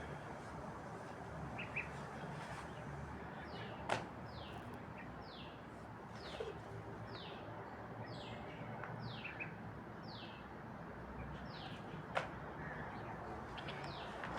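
A bird calling, a short high falling note repeated over and over at an even pace, over steady background noise; two sharp knocks stand out, one about four seconds in and one near the end.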